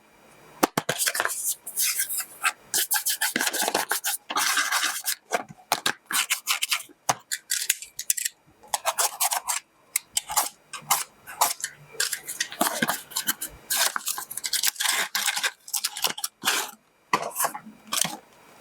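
Rustling, crinkling and clicking of packaging and small plastic parts being handled, in quick irregular bursts, as when a mini air conditioner is unboxed.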